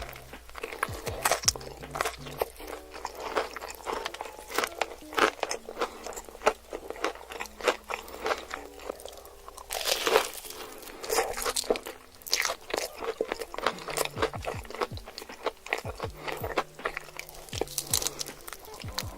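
Close-miked mukbang eating: repeated crunchy bites and chewing of food, with many sharp crackles, over soft background music.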